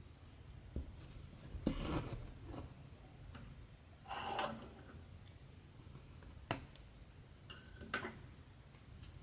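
Cotton thread drawn through cross-stitch fabric in short, separate rasping pulls, with a couple of sharp clicks from the needle or hoop.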